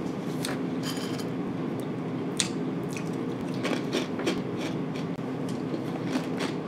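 A person chewing a mouthful of dry Franken Berry cereal with the mouth closed: irregular crunches, a few of them louder, over a steady low hum.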